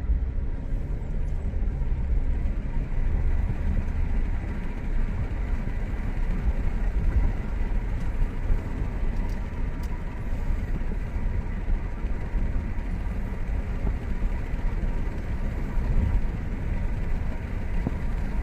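Alfa Romeo car being driven: a steady rumble of engine and road noise with no breaks.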